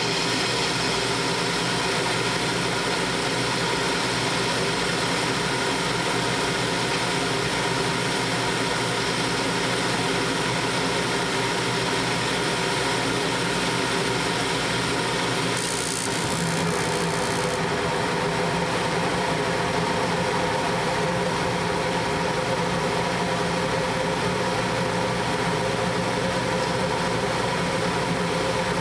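Furnace draft inducer blower running steadily, its bad motor bearings freshly oiled so that it spins again. A short hiss and a slight change in tone come about sixteen seconds in.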